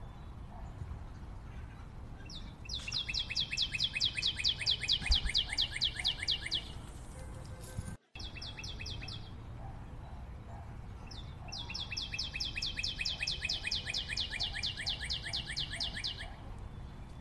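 A bird singing long, fast trills of about eight notes a second: two trills of four to five seconds each with a short one between them, over a faint steady background hiss. The sound drops out for an instant about eight seconds in.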